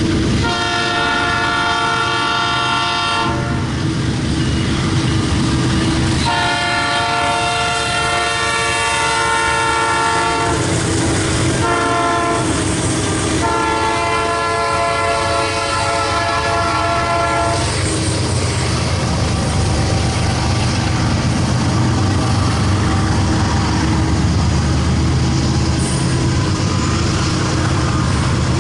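Diesel locomotive's multi-chime air horn sounding the grade-crossing signal: two long blasts, a short one, then a final long one. After that comes the steady rumble of the train rolling past.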